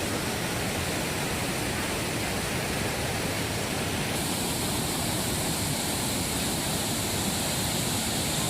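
Waterfall: a steady, even rush of falling water, with a slight change in the hiss about four seconds in.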